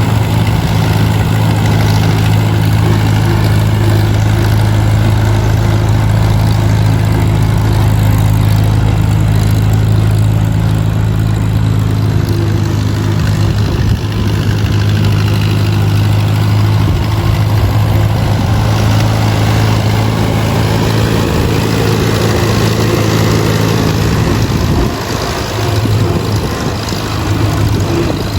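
An engine idling steadily, its level easing slightly about 25 seconds in.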